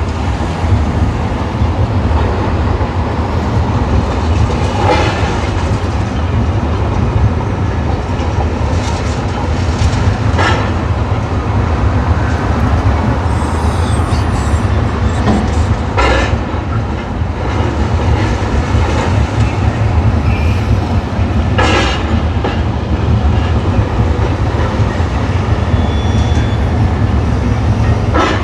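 Heavy demolition machinery running with a steady low diesel rumble, with a sharp knock about every five to six seconds.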